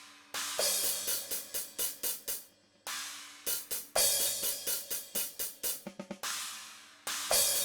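Overhead microphone tracks of a DrumGizmo virtual drum kit playing back: a steady run of hi-hat strokes with crash cymbal washes every few seconds. The sound is cymbal-heavy and thin, because the overheads carry little kick and snare (the missing bleed). The playback briefly drops out about two and a half seconds in.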